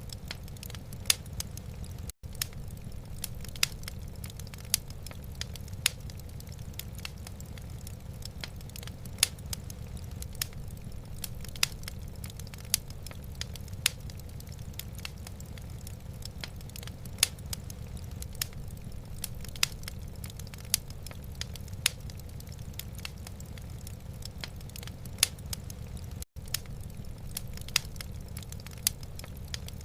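Wood fire crackling in a fireplace: irregular sharp pops and snaps over a steady low rumble. The sound drops out for an instant twice, a few seconds in and near the end.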